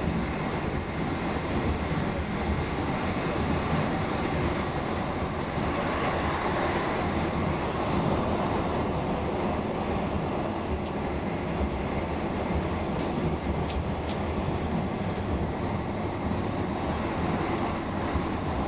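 Roslagsbanan X10p electric train heard from inside the carriage while running: a steady rumble of wheels on rail. From about eight seconds in, the wheels squeal with high steady tones for about eight seconds, louder just before they stop.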